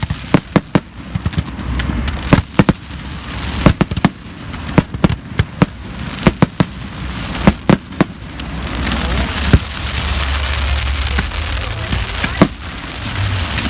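Fireworks display: many sharp bangs at irregular intervals, thick over the first eight seconds or so, then a steady hiss with only a few bangs.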